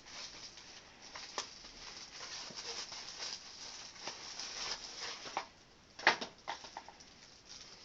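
Handling noise of a pair of magnifier glasses being turned over: steady rustling with scattered light clicks, and a sharper click about six seconds in followed by a few smaller ones.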